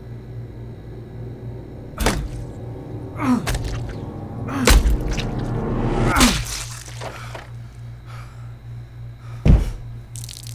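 Film sound design: a steady low hum with five heavy thudding hits spread across the stretch, several of them followed by a tone sliding downward.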